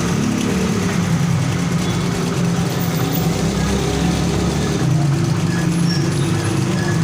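Honda CD 100's single-cylinder four-stroke engine running steadily with the engine noise that the repair sets out to cure.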